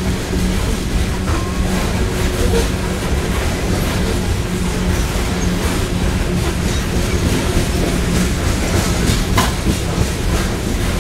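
Coal hopper cars of a CSX freight train rolling past with a steady loud rumble, their wheels clacking over rail joints now and then.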